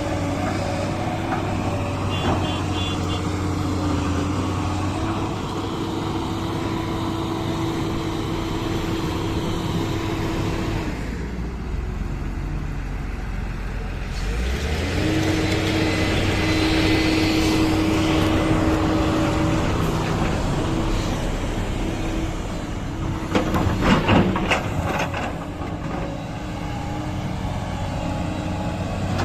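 Diesel engines of heavy earthmoving machinery running steadily. The engine sound drops away for a few seconds a little before the middle, then a low engine note rises and holds. A cluster of loud clanks and knocks comes about four-fifths through.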